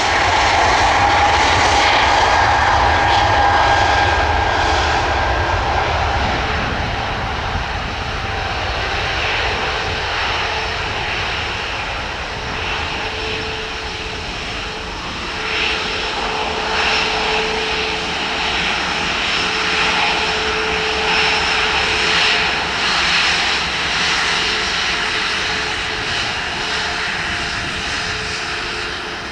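Airbus A330-900's Rolls-Royce Trent 7000 turbofan engines running steadily, loudest in the first few seconds, with a faint steady whine over the jet noise.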